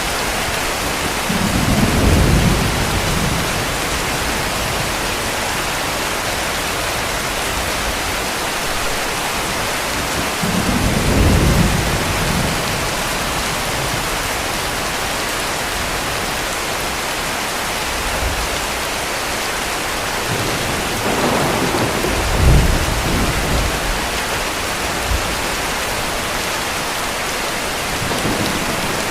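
Steady heavy rain with distant thunder rumbling low three times, about two seconds in, around eleven seconds, and a longer roll from about twenty-one to twenty-three seconds.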